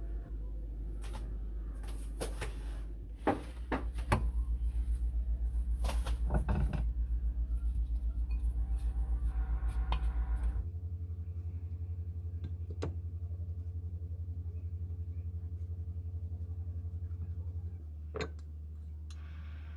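Kitchen handling sounds: a series of sharp clicks and knocks of dishes and cupboard doors, most of them in the first half, over a steady low hum that drops in level about halfway through.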